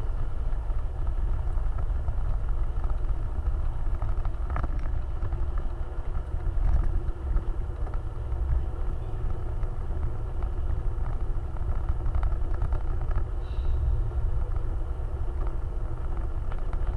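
Steady low rumble of a vehicle driving off-road, with a constant engine tone and a few faint knocks.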